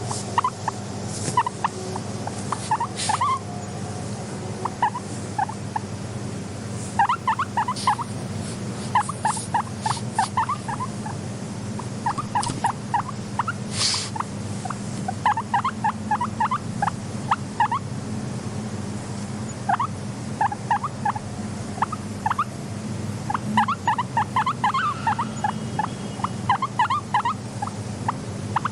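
Guinea pigs calling in quick runs of short rising squeaks, several bursts of them, with a few sharp clicks and a steady low hum underneath.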